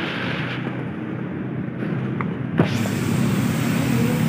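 Steady road traffic rumble, with a sharp click about two and a half seconds in, after which a higher hiss joins.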